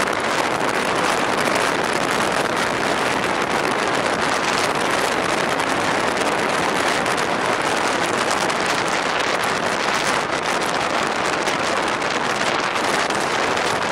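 Steady rushing noise of an electric train running at high speed, wheels on rail, holding an even level throughout.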